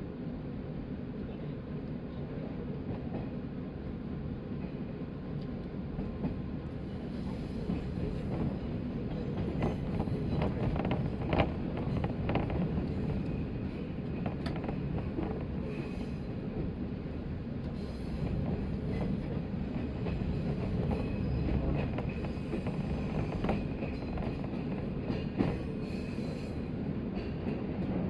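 A 185 series electric train running along the line: a steady rumble of wheels and running gear with scattered sharp clacks, getting a little louder several seconds in.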